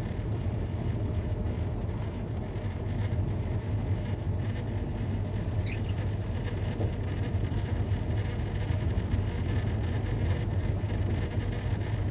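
Semi-truck cruising on the highway, heard from the cab: a steady drone of engine and road noise with a strong low hum.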